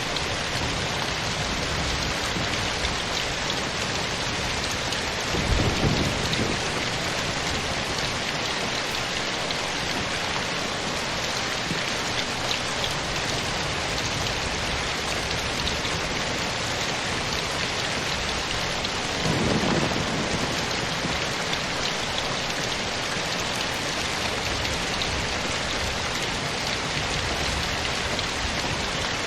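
Steady rain falling, with two brief low rumbles of thunder about fourteen seconds apart.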